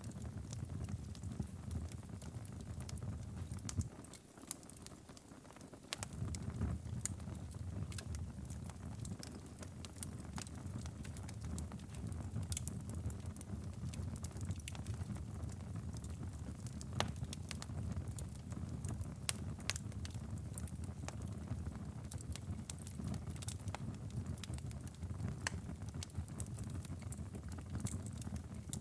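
Wood fire crackling and popping in irregular sharp snaps over a steady low rumble, which drops out for about two seconds around four seconds in.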